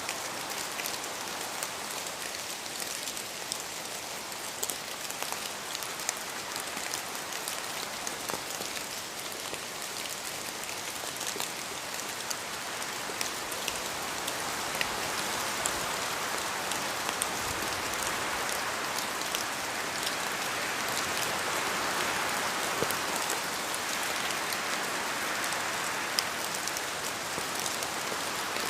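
Steady rain falling, with many separate drops ticking on a surface, growing slightly louder in the second half.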